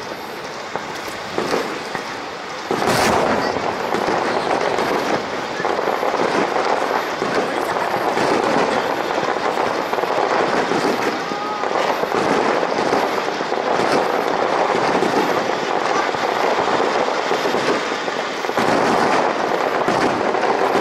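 Aerial fireworks shells bursting over the water: a loud bang about three seconds in, then a dense, continuous crackle and rattle of many bursts.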